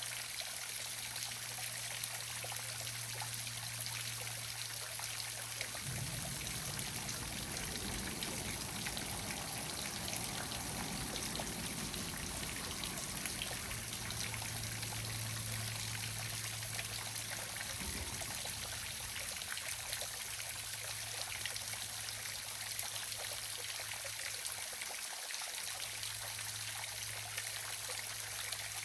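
Small waterfall splashing and trickling steadily, with a faint low hum underneath.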